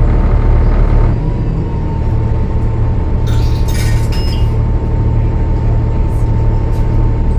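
Bus diesel engine, a Cummins ISL9, running steadily, easing a little about a second in, with a steady thin whine from then on. A brief clinking rattle comes about three to four seconds in.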